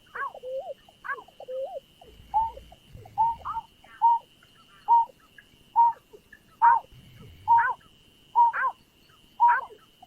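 Greater painted-snipe (nhát hoa) calling: a regular series of short hooting notes, about one a second, each dropping in pitch, with lower warbling notes between them in the first two seconds. A thin steady high tone runs underneath.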